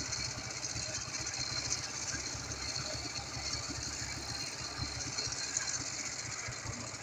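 Ural motorcycle's flat-twin engine running steadily at low revs, with a steady high hiss over it.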